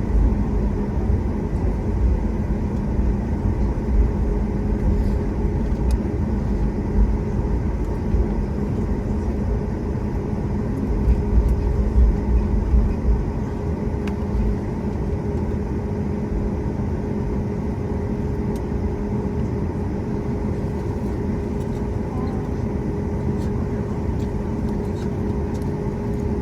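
Airliner cabin noise during taxi after landing: a steady low rumble from rolling over the ground, with the engines' steady hum at idle. The rumble is heavier in the first half and evens out about halfway through.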